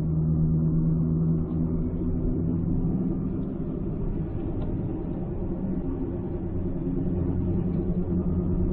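2006 Ford Escape Hybrid under way, with a steady whining hum over road noise; the pitch shifts slightly about a second and a half in. The whine persists after a strut bearing swap; the owner has ruled out wheel bearings and brakes and fears a transmission issue.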